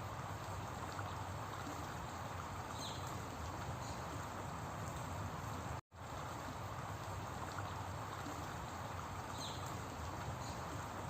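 Steady running water, an even hiss, in a short repeating loop that drops out to silence for a moment about six seconds in. A faint high chirp sounds twice.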